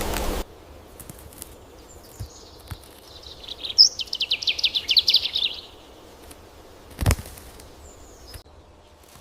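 A small bird's rapid trill, a quick run of high notes lasting about two seconds, over faint outdoor ambience. A loud rush of noise cuts off sharply just after the start, and a single dull thump comes about two-thirds of the way through.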